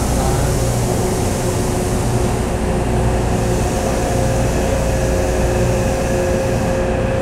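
Steady hum from a propulsion-retrofitted Taipei Metro C301 train, with two constant mid-pitched tones over a low rumble and an even hiss.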